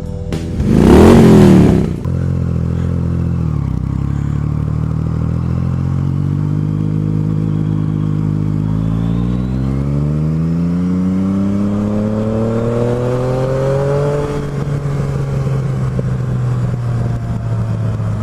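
Yamaha FJ-09's 850 cc crossplane inline-triple engine pulling away, its pitch climbing steadily for several seconds, then dropping back and holding a steady cruise. A loud, brief rushing burst comes about a second in.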